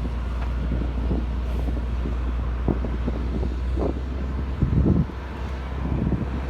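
Wind buffeting the microphone in irregular gusts over a steady low rumble, with a louder gust about five seconds in.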